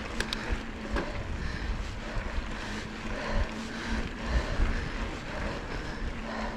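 Wind buffeting the microphone on a moving mountain bike, with uneven low rumbling gusts and a faint steady hum. There are a couple of brief sharp ticks just after the start.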